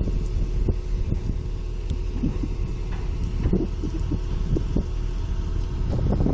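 Sumitomo excavator's diesel engine running steadily with a low rumble, with scattered light knocks over it.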